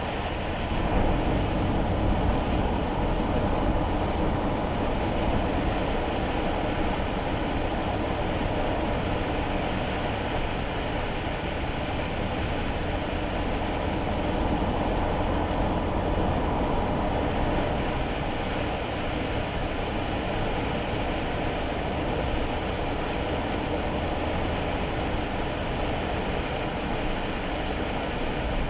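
Steady road and tyre noise heard inside a kei car's cabin while driving on wet roads in the rain: a low rumble under a continuous hiss.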